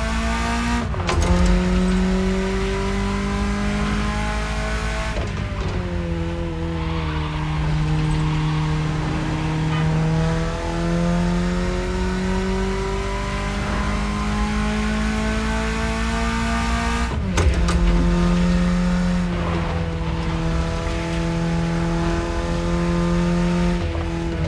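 BMW E30's engine running under way, its pitch slowly climbing and falling with the revs, with sudden breaks in pitch about a second in, around five seconds in and around seventeen seconds in, as at gear changes.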